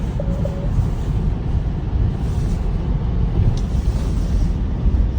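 Wind buffeting the microphone in a snowstorm: a loud, gusting low rumble with a light hiss above it.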